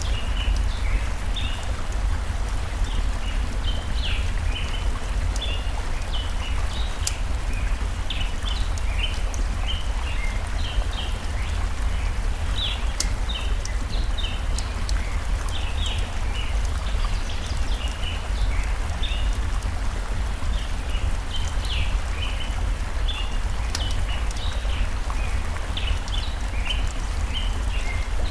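Layered nature ambience: a running stream with a steady low rumble, many short bird chirps throughout, and now and then a sharp pop from a crackling campfire.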